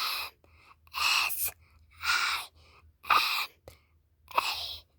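A person's breathy, mostly voiceless huffs or gasps, five of them about a second apart.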